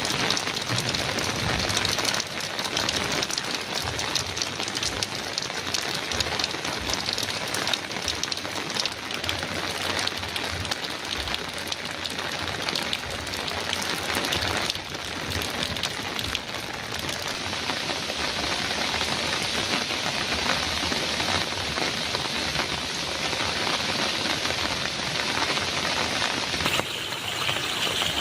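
Heavy rain drumming on a metal roof: a dense, steady patter of countless drops. Its tone changes abruptly near the end.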